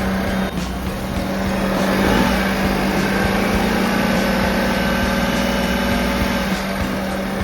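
Daihatsu Hijet kei truck engine running steadily with an even hum. It gets a little louder about two seconds in and eases back near the end.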